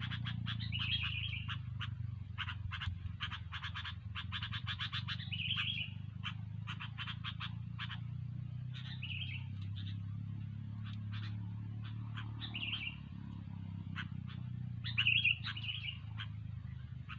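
Sooty-headed bulbuls (kutilang) calling: fast runs of short chattering notes, with separate short, higher calls every few seconds, over a steady low hum.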